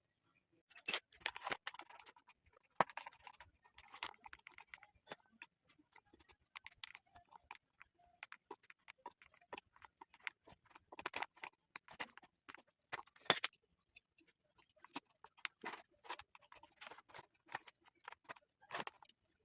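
Irregular clicks, taps and short scrapes of stand fan parts being handled and fitted together by hand, with a few sharper ticks, one about three seconds in and one about thirteen seconds in.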